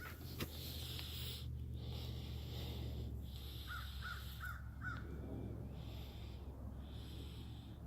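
Crows cawing, a quick series of four short caws about four seconds in, over a steady low rumble.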